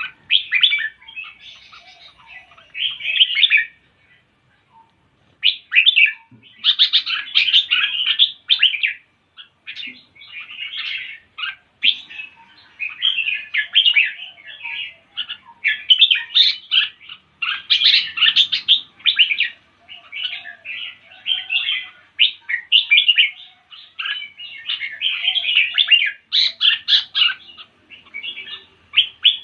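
Small bird chirping and twittering in quick runs of high notes, nearly without a break, with a few short pauses.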